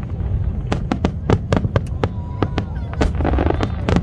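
Aerial fireworks display: a rapid string of sharp cracks and pops, several a second, over a constant low rumble.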